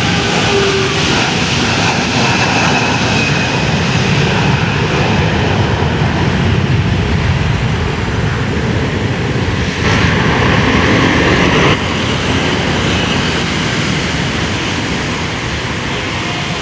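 Airliner engines running loud and steady, with a faint falling whine in the first few seconds. About ten seconds in, a brighter hiss rises for about two seconds, then drops back.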